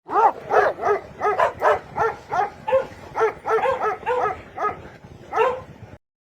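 An animal giving a rapid run of short, pitched calls, about two to three a second, that stops about a second before the end.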